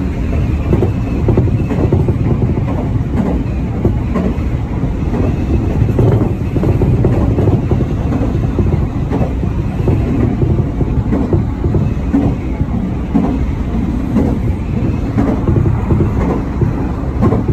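Electric commuter train running at speed, heard from inside the passenger car: a steady low rumble of wheels on rail with frequent clicks and knocks from the track.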